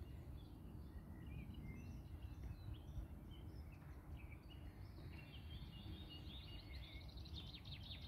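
Small songbirds chirping and twittering, with scattered short high notes and a quick trill near the end, over a faint low rumble.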